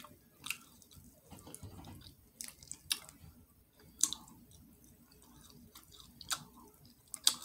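Close-up wet mouth sounds of someone chewing catfish and picking meat off its bones: scattered sharp lip smacks and clicks about every second or so, with faint chewing between them.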